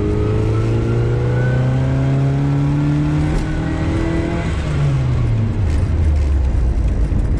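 Classic Austin Mini Countryman's small four-cylinder engine accelerating, its pitch rising steadily for about four seconds. The revs then fall quickly, as at a gear change, and the engine runs on at a lower steady pitch.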